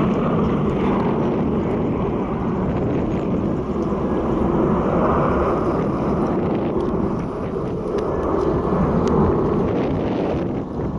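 Airbus A321 jet engines at takeoff power during departure: a loud, steady rumble that swells and eases slightly.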